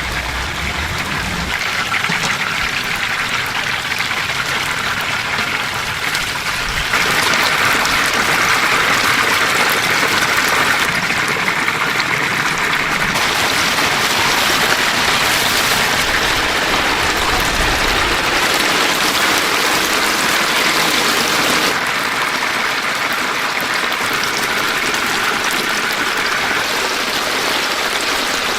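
Chicken deep-frying in a vat of hot oil, a steady dense sizzle that grows louder about seven seconds in.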